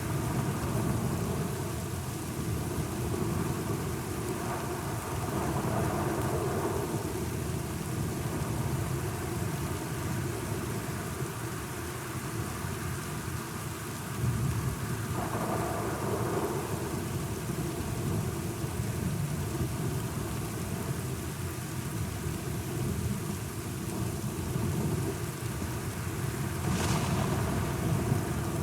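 Thunderstorm: steady rain with low rolling thunder swelling up a few times, one rumble starting abruptly about halfway through, and a brief sharper crackle near the end.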